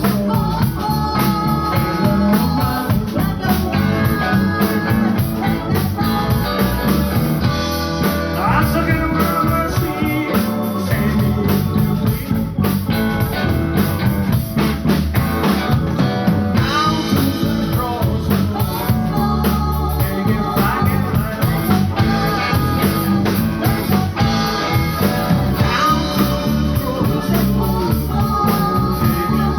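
A live band playing a blues-rock number with guitar and drum kit.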